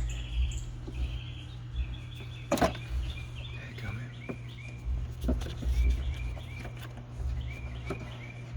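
A small bird chirping over and over in short, quick calls, two to three a second, over a low rumble that comes and goes. A few sharp clicks and knocks from hands at work cut through, the loudest about two and a half seconds in.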